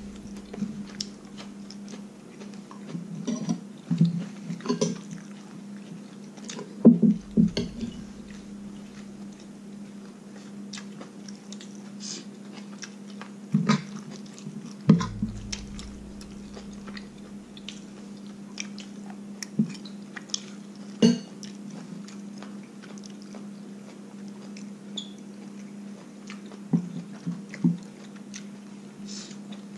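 A person eating: chewing on stir-fried pork intestines, with scattered clicks and a few louder knocks of a spoon and chopsticks against the plate and bowls, over a steady low hum.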